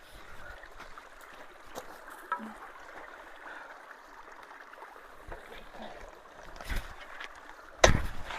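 Creek water running steadily through a culvert, with scattered small clicks and a loud, sharp knock near the end.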